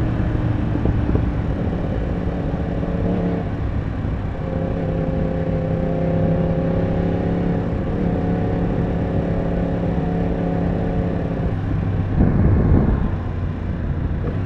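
Yamaha R1 inline-four engine running under way at a steady pitch. The note breaks off and picks up again a few times as the throttle changes. There is a louder, rougher stretch about twelve seconds in, after which the engine note drops low.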